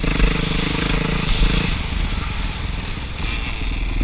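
Motocross dirt bike engine running under a steady rush of wind noise. Its note holds steady for under two seconds, falls away, then picks up again near the end.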